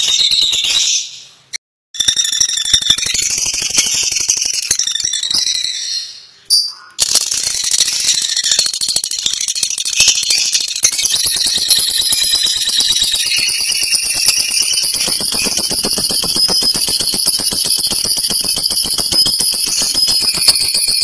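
Lovebird singing its long 'ngekek' chatter: a loud, very fast, high-pitched trill. It breaks off twice in the first seven seconds, then runs on without a break.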